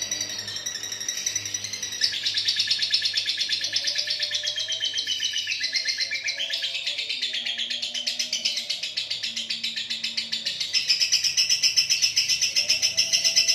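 Lovebird ngekek: one long, unbroken run of rapid, high-pitched chattering notes with no pauses, growing louder near the end.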